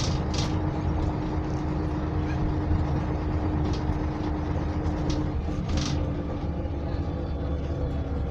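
MAZ-104 city bus under way, heard from inside the cabin: its YaMZ-236M2 V6 diesel runs with a steady low rumble and a steady hum that fades out near the end, with a few brief rattles.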